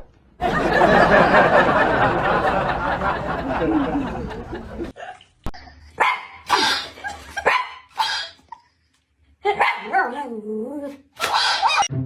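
A dog barking in a string of short separate bursts, with a wavering pitched call about ten seconds in.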